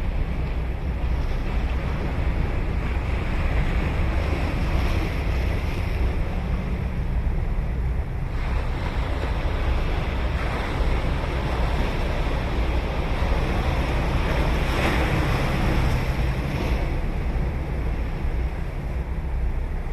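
Ocean surf washing ashore in a steady rush, swelling louder as waves break about five seconds in and again near fifteen seconds, with wind rumbling on the microphone.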